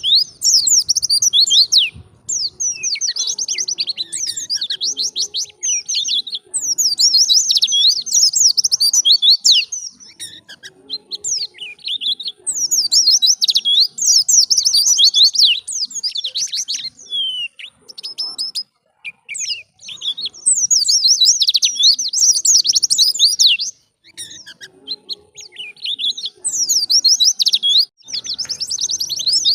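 White-eye (pleci) singing: rapid, high twittering phrases of quick chirps, each a couple of seconds long, with short breaks and single notes between them.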